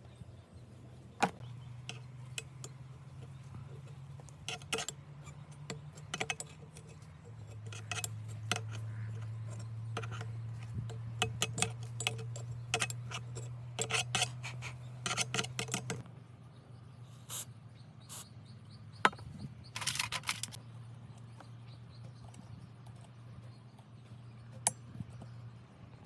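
Scattered light clicks and taps of tools and small parts being handled, over a low steady hum that drops in pitch about seven seconds in and weakens a little past halfway.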